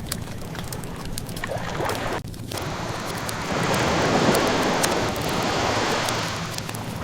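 Ocean waves washing ashore, with one wave swelling up about halfway through, while a wood fire crackles with scattered small pops.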